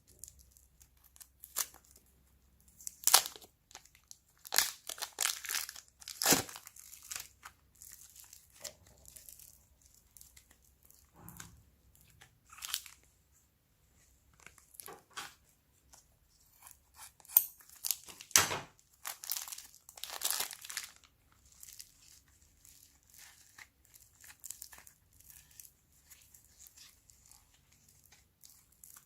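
Hands mixing and kneading store-bought slime, making irregular sticky crackles and pops, with the busiest bursts a few seconds in and again in the middle of the stretch.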